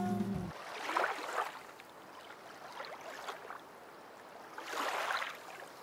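Background music cuts off about half a second in, leaving soft water noise around a small boat on a lake that swells and fades about every two seconds.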